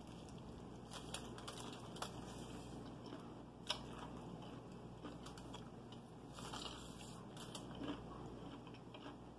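Quiet close-up eating sounds: chewing a bite of crispy fried chicken and fingers pulling meat off the bone, heard as scattered small clicks and crackles with one sharper click a little before the middle.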